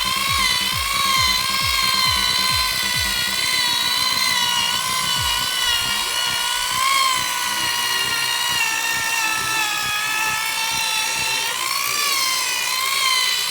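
Electric rotary buffer with a wool pad running on a plastic headlight lens during the final polish, its motor whine dipping and rising in pitch as the pad is pressed and eased.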